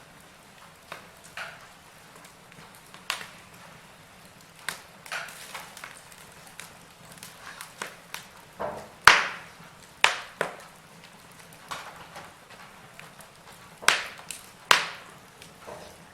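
Wood fire crackling and popping: irregular sharp snaps of burning logs over a faint steady hiss, with the loudest pops about nine and ten seconds in and again near the end.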